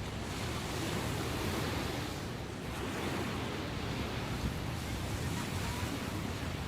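Ocean waves breaking and washing on the shore in a steady rush, rough sea after a typhoon, with wind on the microphone.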